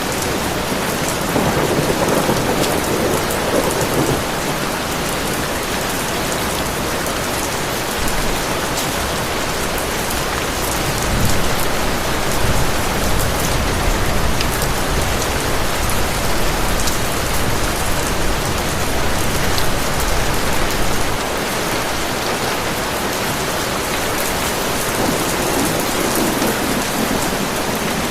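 Heavy rain pouring steadily, with a low rumble of thunder coming in about eight seconds in and rolling on for about thirteen seconds before it drops away.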